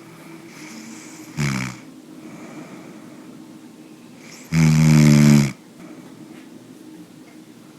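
A person snoring: a short snore about a second and a half in, then a louder, longer snore of about a second near the middle.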